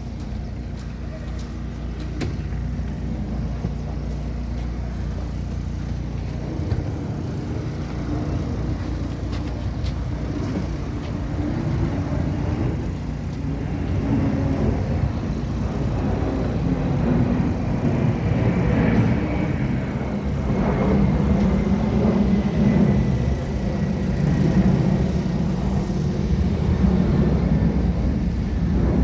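An engine running steadily with a low rumble, getting louder about halfway through, with a faint whine slowly falling in pitch near the end.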